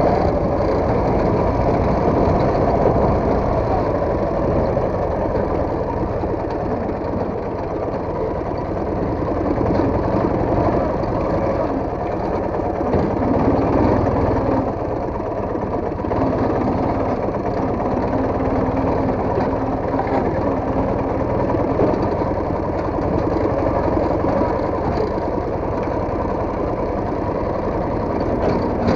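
Motorcycle engine running steadily under way, with small rises and falls in level.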